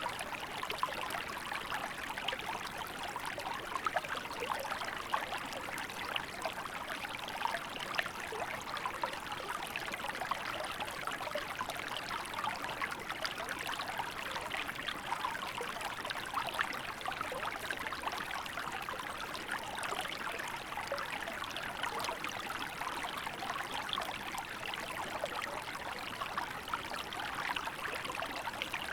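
A small river flowing steadily over rocks, with a continuous babble of many small splashes and trickles.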